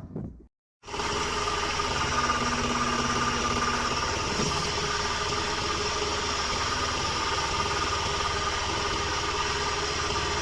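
Engine of a log-splitting machine running steadily, with a constant whine over a low hum; it starts abruptly just under a second in.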